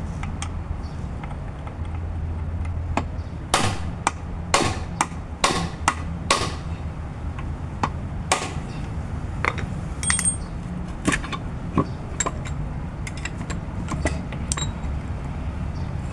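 Hammer striking metal on a car's lower control arm ball joint: four strong blows about a second apart, then lighter metallic taps and clinks, over a steady low hum.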